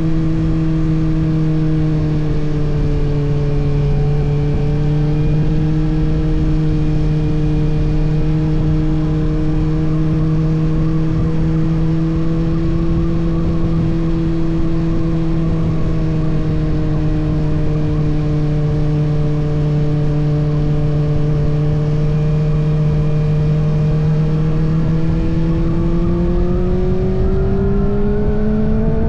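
Kawasaki ZX-6R's 636 cc inline-four running under way at fairly steady revs over wind and road noise, heard from the fuel tank. In the last few seconds the pitch rises as the bike accelerates.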